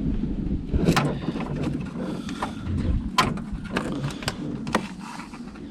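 Hands working on a car's rear tail light assembly and surrounding trim: a series of sharp clicks and knocks at irregular intervals over a low rumble.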